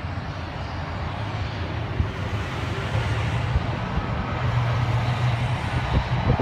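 Steady low engine drone over a rushing noise during an airliner's pushback before takeoff, slowly growing a little louder, with a short knock about two seconds in and another near the end.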